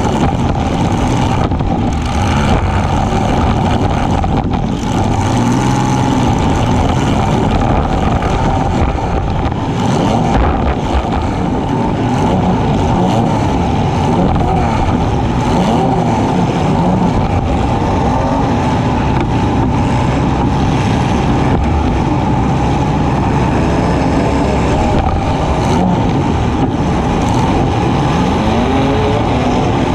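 Demolition-derby compact cars' engines running and revving hard, the pitch rising and falling, with a few sharp knocks among them.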